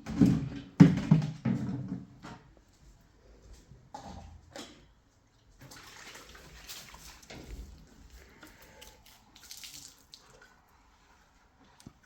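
Splashing water, loudest and most continuous in the first two seconds, then fainter intermittent splashes and small knocks.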